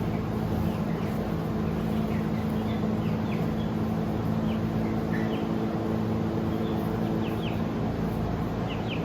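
Small birds chirping in short, quick downward chirps, scattered through, over a steady low hum.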